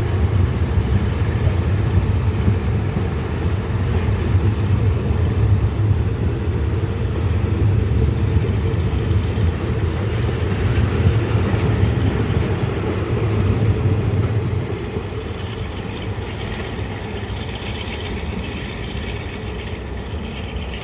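Diesel train running past with a deep engine rumble, which drops away about two-thirds of the way through and leaves a steadier, slightly quieter running noise.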